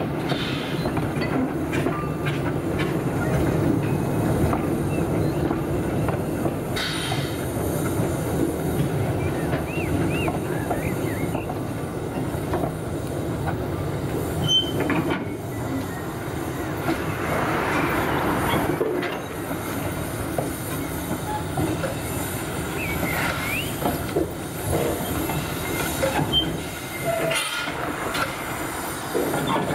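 Narrow-gauge steam train of open carriages rolling slowly past, wheels clattering on the rails. Short wheel squeals sound about ten seconds in and again near twenty-three seconds.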